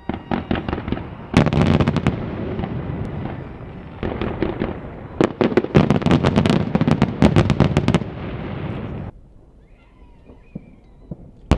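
Fireworks display: aerial shells bursting in quick succession, many sharp cracks and bangs over a rolling rumble, in two dense salvos. Just after nine seconds it drops suddenly to a low level, with a single loud crack near the end.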